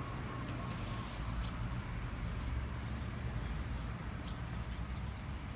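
Steady outdoor background noise: a low rumble with a high hiss and a few faint short ticks.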